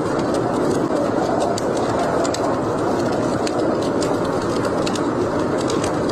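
Steady howling blizzard wind with a fireplace fire crackling in irregular sharp snaps through it.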